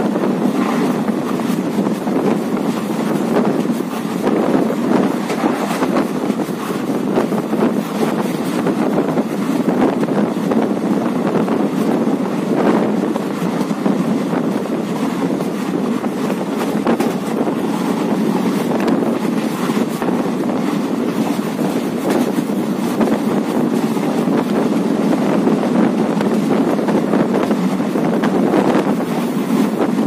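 Steady rumble and rush of a moving passenger train, heard at an open coach window, with wind buffeting the microphone.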